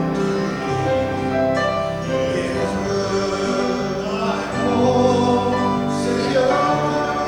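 Worship song: singing voices holding and sliding between long notes over instrumental accompaniment.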